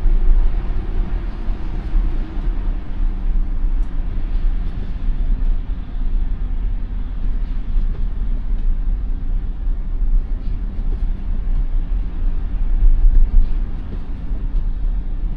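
Steady low rumble of tyre and road noise inside the cabin of an electric 2021 Tesla Model Y driving on snow-covered roads.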